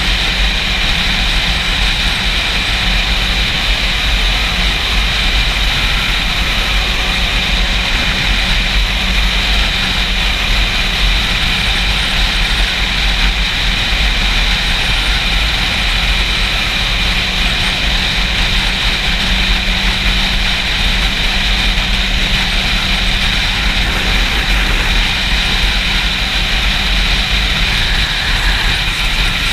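Heavy wind buffeting on a GoPro's microphone while riding a Yamaha YZF-R6, over the bike's inline-four engine running at a steady speed.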